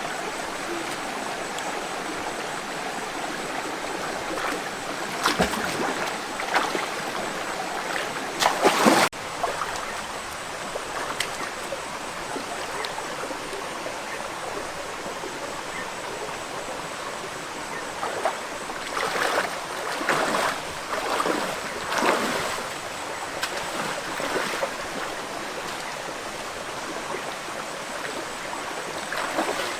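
Stream water running steadily, with several short, louder noises over it. The sound changes abruptly once, about nine seconds in.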